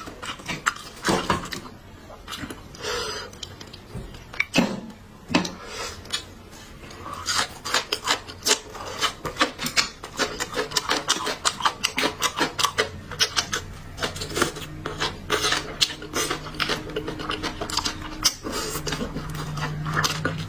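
Close-up eating sounds: chewing and crunching food in rapid, irregular crackling clicks, densest through the middle, with now and then a scrape or rub.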